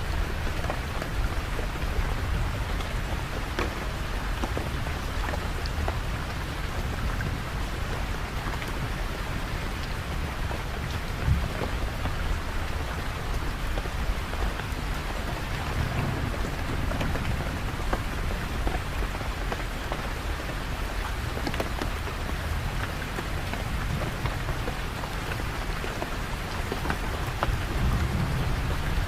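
Steady rain falling, an even hiss with many small drop ticks. Underneath it, distant thunder rumbles low, swelling about halfway through and again near the end.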